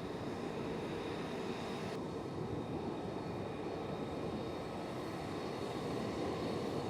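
F-35A's jet engine running: a steady rumble with a thin high whine on top, the upper hiss dropping away suddenly about two seconds in.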